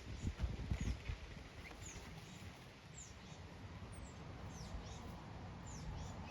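Birds chirping: short, high chirps that drop in pitch, repeating every second or so, over low rustling and thumps that are strongest in the first second.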